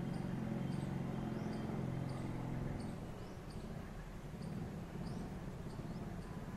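High-pitched squeaky chirps, one or two a second at uneven spacing, from a small bird, over a steady low hum that eases off about three seconds in.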